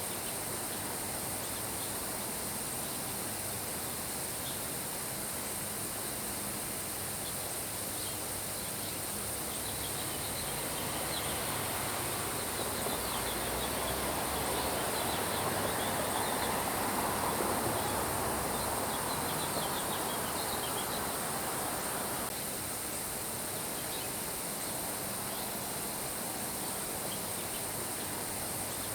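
Steady rain falling, swelling louder for several seconds midway before easing back, with birds chirping faintly.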